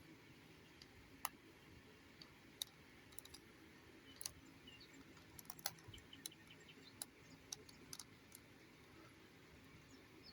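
Near silence broken by about a dozen faint, irregular clicks and taps: a small diecast model bus being handled and turned over.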